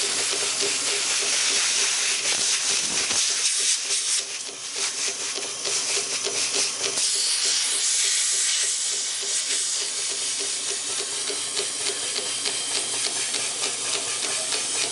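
Vintage 1927 Champion air compressor running on its electric motor and pumping air, heard as a loud steady hiss of air over a low mechanical hum, with a brief dip about four seconds in.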